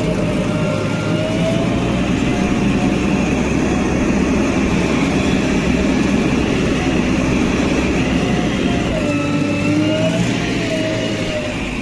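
Heavy diesel engine of earthmoving machinery running steadily, with a whine that rises and falls in pitch over the low engine rumble.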